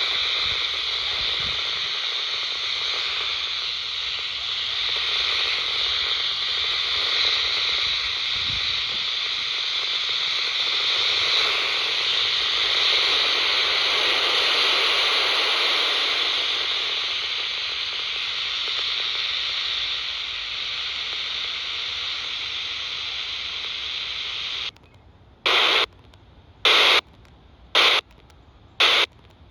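FM radio receiver hiss on the UK 27 MHz FM CB band, the steady rushing static of an FM channel with no clear signal. Near the end the hiss starts cutting out and back in, in short spells about a second apart.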